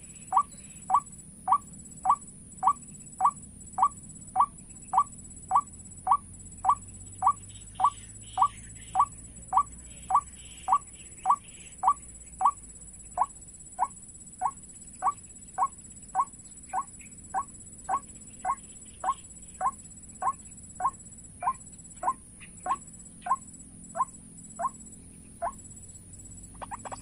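Recorded white-breasted waterhen call played as a bird-trapping lure: short, rising 'kwak' notes repeated at an even pace of just under two a second, with a faint steady high hiss above.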